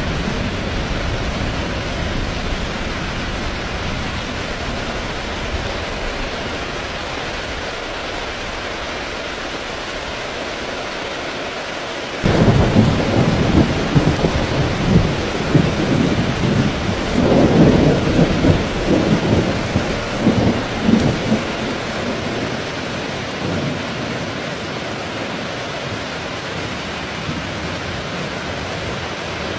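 Steady rain falling, with a thunderclap breaking suddenly about twelve seconds in and rolling in uneven rumbles for about ten seconds before fading back under the rain.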